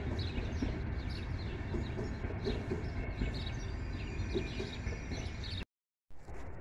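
Intercity passenger coaches rolling past with a steady low rumble, with birds chirping over it. Near the end the sound drops out for about half a second, then a quieter, steady rumble resumes.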